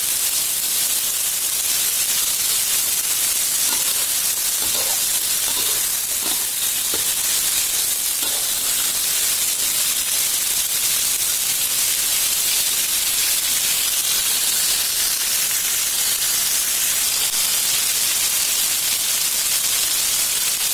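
Long beans stir-frying in oil in an aluminium wok, a steady sizzle, with a metal spatula scraping and turning them a few times in the first half.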